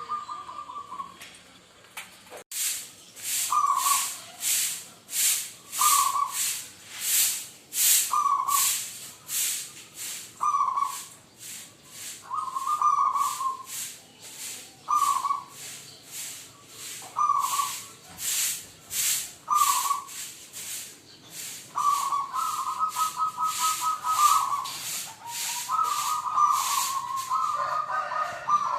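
Zebra doves (perkutut) cooing: short notes about every two seconds, then longer trilled phrases in the last third. Through it runs a loud high-pitched hiss that pulses about twice a second.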